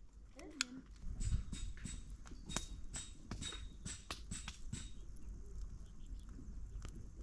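A run of irregular sharp clicks and taps, about two or three a second, from about a second in until about five seconds in.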